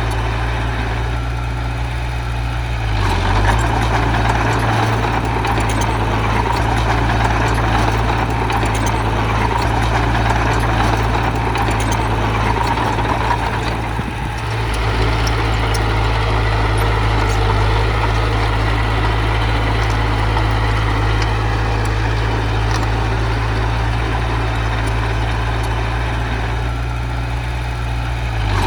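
Diesel engine of heavy earthmoving machinery running steadily, louder about three seconds in and easing briefly near the middle.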